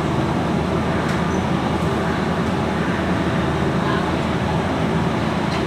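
Steady, loud machinery noise: a continuous low hum with occasional faint clicks.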